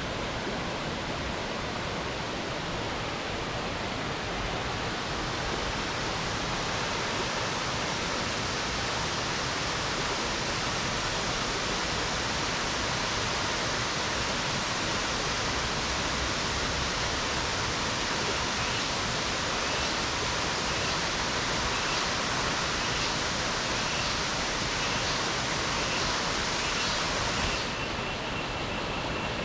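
Waterfall rushing steadily, an even wash of falling-water noise. Its higher part drops away abruptly near the end.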